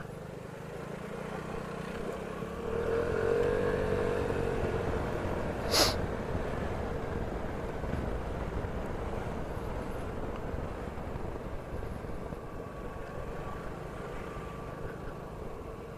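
Vespa scooter's engine running as it rides, its note rising and falling about three seconds in as it speeds up and eases off. A single sharp click near six seconds in.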